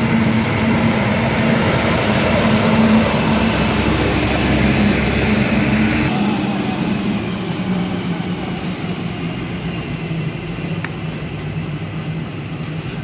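Concrete mixer truck's heavy diesel engine running steadily. About six seconds in, the deepest rumble drops away and the engine carries on a little quieter.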